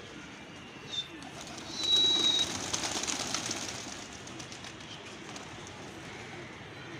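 Domestic pigeons cooing, with a short high chirp about a second in and a brief steady high whistle near two seconds. This is followed by a louder rush of noise with rapid flutters lasting about two seconds.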